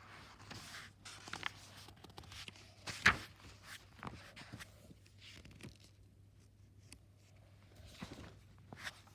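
Quiet room with faint, scattered knocks and rustles of handling, and one sharper knock about three seconds in.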